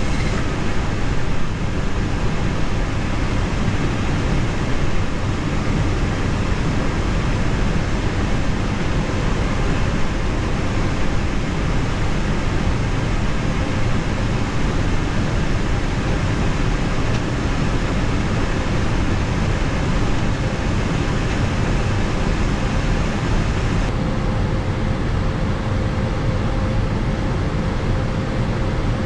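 Steady flight-deck noise of an Airbus A321 with one IAE V2500 turbofan running and the air-conditioning packs blowing. Near the end the hiss softens and a steady hum comes in.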